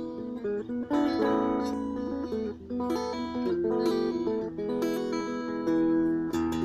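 Ibanez AXS42 electric guitar, rewired with solid-core vintage wire, played through an amplifier: a run of plucked single notes and chords.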